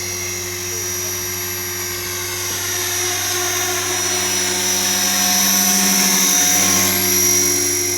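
Align T-Rex 470LP electric RC helicopter hovering: steady whine of its brushless motor and drivetrain with the rotor blades' hum, running on a 6S battery. It grows louder from about five seconds in and eases again near the end as the helicopter turns.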